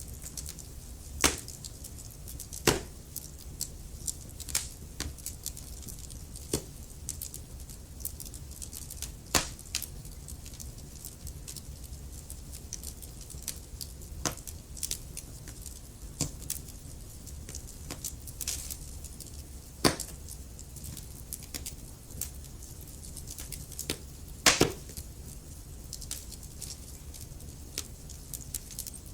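Wood fire burning in a fireplace: irregular crackles and sharp pops from the burning logs over a low, steady rumble of the flames, with the loudest pops about a second in, near three seconds, and around twenty and twenty-five seconds.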